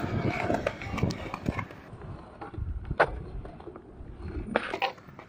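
Skateboard wheels rolling over concrete with a low rumble that eases off after about two seconds, and a sharp knock about three seconds in with a couple more near the end.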